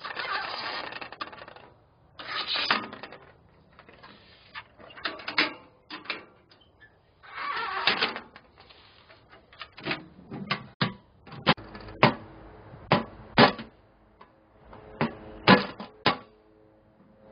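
Hand work on a steel ammo can: several rasping strokes, then a run of sharp metallic taps and clinks, each ringing briefly.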